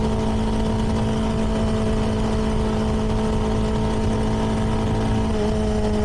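CFMoto 300NK's single-cylinder engine through its stock exhaust, running at steady cruising revs, with the engine note easing down slightly about five seconds in as the throttle is rolled back.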